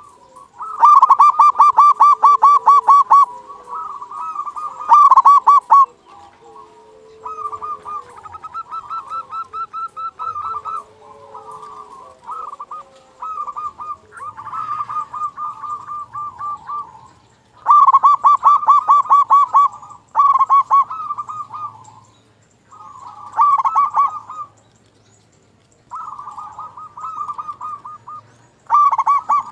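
Zebra dove (perkutut) cooing: repeated phrases of rapid staccato, rolling coos, some phrases much louder than others, with short pauses between them.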